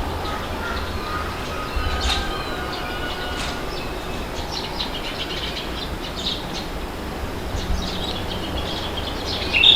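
Wind blowing steadily, with a low rumble, while small birds chirp and whistle throughout; a louder burst of chirps comes near the end.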